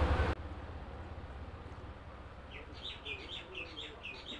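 A loud low hum that cuts off abruptly just after the start, then quiet background with small birds chirping: a quick run of short, falling chirps beginning about two and a half seconds in.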